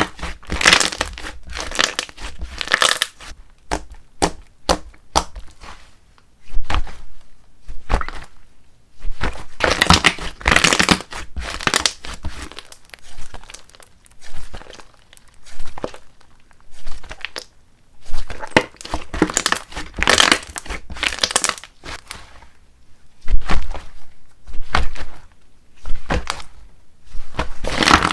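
Slime being squeezed, stretched and folded by hand, with bursts of crackling and popping from air bubbles bursting, coming irregularly every second or few seconds.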